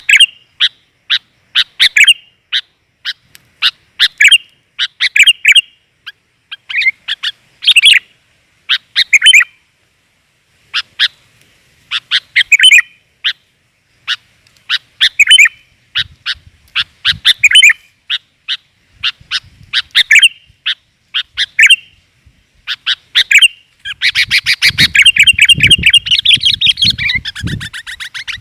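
Sooty-headed bulbul (kutilang) calling: short, sharp notes in quick clusters, repeated about every second, then a dense, fast chatter near the end. It is a female's call used as a lure for males.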